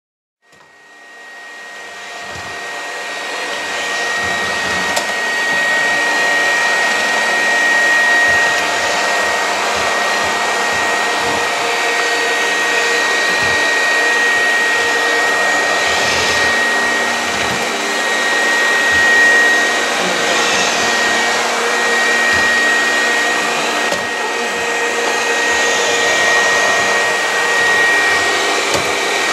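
Robot vacuum cleaner running, a steady whir with a high, constant whine, fading in over the first few seconds, with scattered low knocks.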